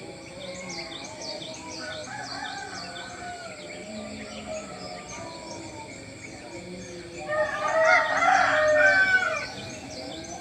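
Small birds chirping over and over, with a rooster crowing loudly once about seven seconds in, for about two seconds.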